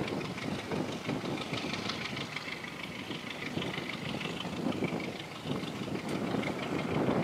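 A passenger train running along the line, heard from an open carriage window: a steady rumble of wheels on rails with an engine underneath and rushing air.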